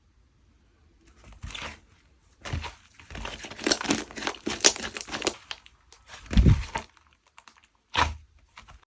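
Hands stretching, folding and squishing clay-mixed slime: irregular bursts of crackling and popping, with a deep squelch about six seconds in and a last burst near the end.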